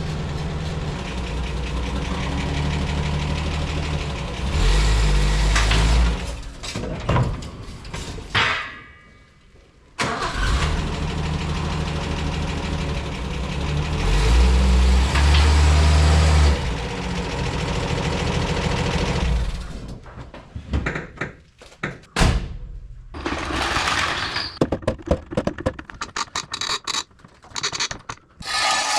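Holden EJ's six-cylinder engine running after a carburettor rebuild, with the revs raised twice in loud surges. It cuts out briefly and comes back, then dies away. After that come scattered metallic clinks and clatter, like tools being handled.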